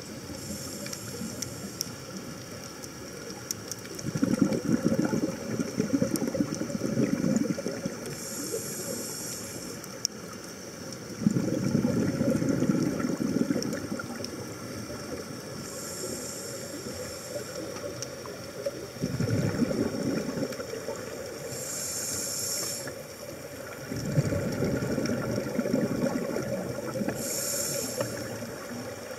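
A scuba diver breathing through a regulator underwater: short hissing inhalations alternate with longer bursts of bubbling exhaust, the cycle repeating about every six seconds.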